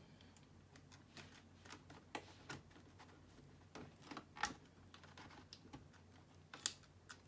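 Faint, irregular light clicks and taps from handling the laptop, with two sharper clicks in the second half.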